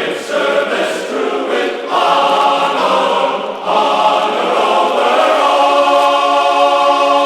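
Choral music: a choir singing with accompaniment, settling onto a long held final chord over the last few seconds.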